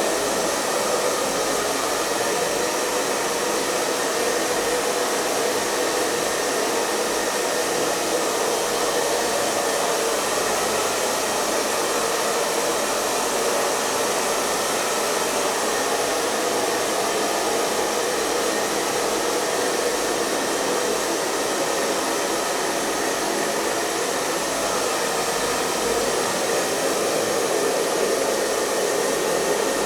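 Hair dryer running steadily: a continuous, even rush of blown air over the hum of its motor.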